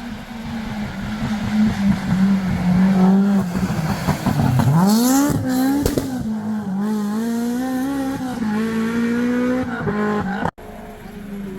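Historic rally car engine at high revs on a stage. About four and a half seconds in the revs fall away and climb sharply back, with a brief burst of tyre noise, then run on steadily. Near the end the sound cuts off abruptly to a quieter engine.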